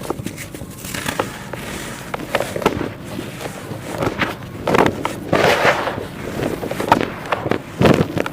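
Dry sandy clay being handled and crumbled, crackling and crunching in irregular bursts, busiest in the second half.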